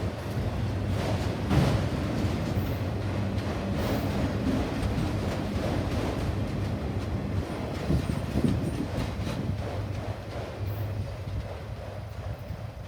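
A train rolling past with a steady low rumble and hum. Sharp clicks and clunks come from the wheels on the rail joints, loudest about a second and a half in and again around eight seconds. The sound eases off near the end.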